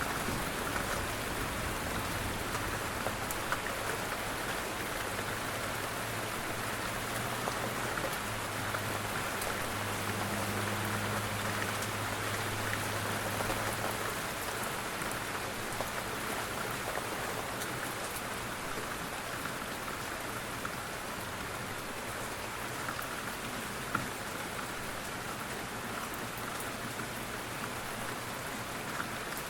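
Steady rain falling and pattering on a surface, an even dense hiss, with a low hum underneath that stops about halfway through.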